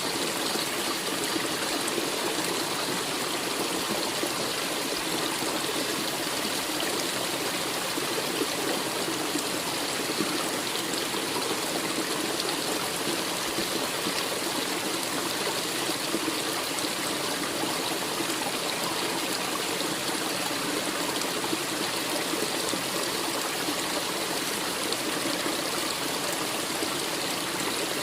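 Flowing water: a stream running steadily, with an even rushing and trickling.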